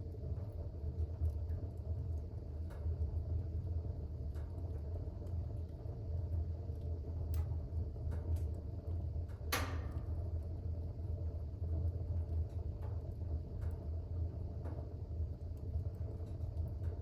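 Fire burning in a fireplace: a steady low rumble with scattered faint crackles, and one louder pop a little past halfway.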